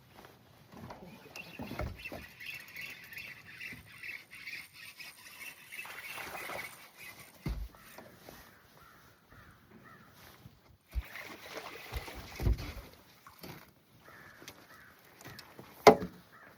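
Birds calling outdoors over water, with a few knocks, the loudest near the end.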